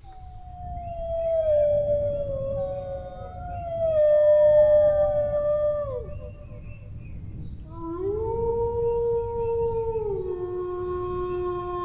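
Dogs howling in long drawn-out notes, more than one voice overlapping: a howl slowly falls in pitch over the first six seconds and drops off at its end. After a short pause a new howl rises, holds, and steps down to a lower note about ten seconds in. A low rumble runs underneath.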